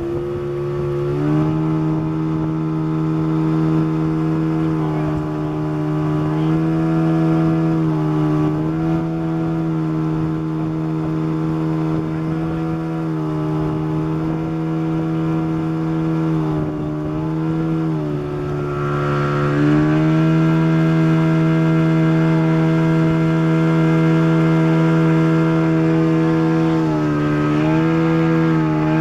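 Boat's motor running steadily under way, its pitch dipping briefly and recovering several times, with a longer dip about seventeen to nineteen seconds in.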